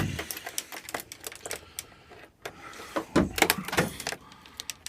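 Irregular clicks and knocks of hands working the controls of a cold machine, with no engine running; the choke is frozen stuck.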